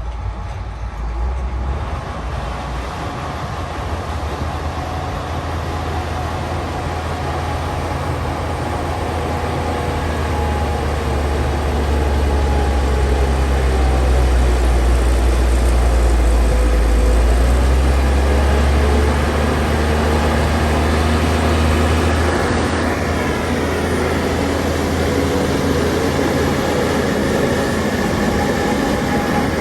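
Heavy diesel earthmoving machinery running with a deep, steady rumble that grows louder for a while about halfway through, then eases back.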